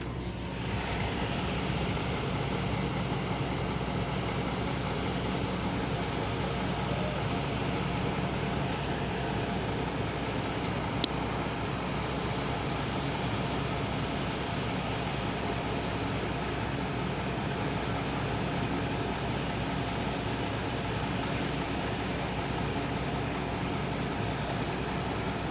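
Sterling cement mixer truck's diesel engine running steadily, growing louder just after the start, with a single sharp click about eleven seconds in.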